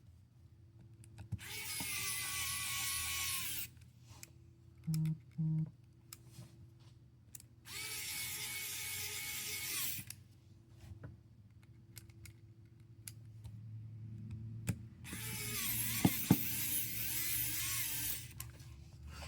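Small electric precision screwdriver whirring in three separate runs of about two to three seconds each, turning the phone's tiny screws. Two short low beeps sound about five seconds in.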